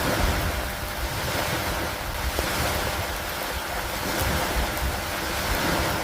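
Steady rain falling, a dense even hiss, over a low, gusty rumble of wind.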